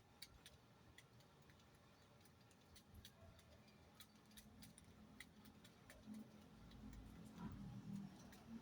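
Near silence with faint, irregularly spaced small clicks, and a faint low rumble building over the last few seconds.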